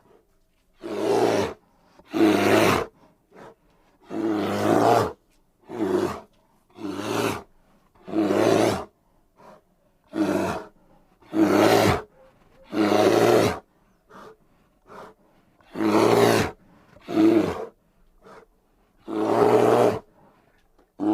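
A bear roaring and growling in a series of about a dozen short, loud calls, each under a second to about a second long, with brief silent gaps between them.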